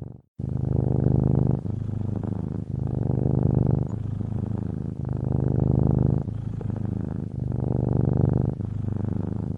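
Domestic cat purring steadily, alternating louder and softer strokes about once a second as it breathes in and out. There is a brief break just after the start.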